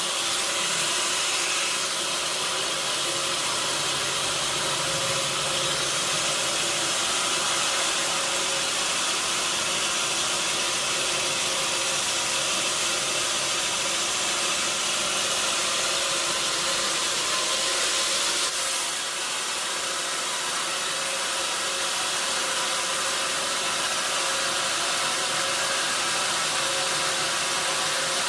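Sawmill machinery running steadily: a loud, even hiss with a constant hum underneath. The sound shifts and drops slightly about two-thirds of the way through.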